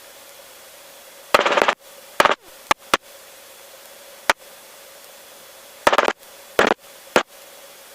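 Aviation radio audio in a helicopter headset: a steady hiss with a faint hum, broken by short loud crackles of static and sharp clicks, about eight in all.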